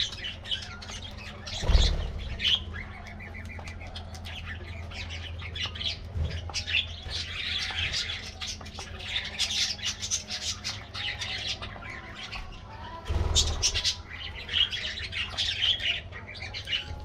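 A flock of budgerigars chattering and squawking, many short calls overlapping without a break. A louder low thump comes about two seconds in and another about thirteen seconds in, over a steady low hum.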